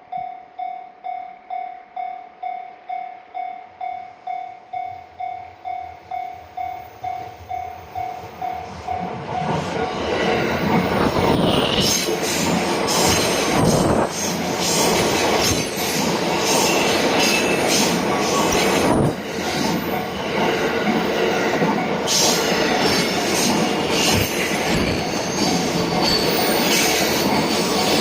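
Japanese level-crossing warning bell ringing its 'kan-kan' tone about twice a second, then a JR Narita Line train passes over the crossing from about ten seconds in, its wheels clattering over the rail joints and squealing, much louder and drowning out the bell.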